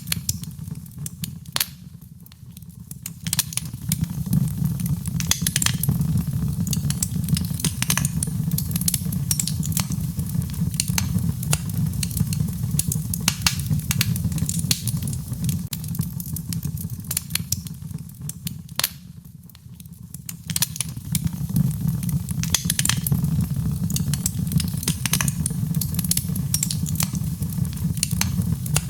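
Wood fire in a fireplace crackling, with many sharp pops over a steady low rumble; it briefly quietens about two seconds in and again near the two-thirds mark.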